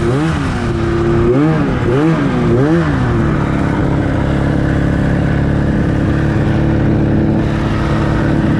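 2004 Arctic Cat F6 snowmobile's two-stroke twin engine, through an aftermarket exhaust can, being blipped: the revs rise and fall sharply about four times, then about three seconds in it settles into a steady note.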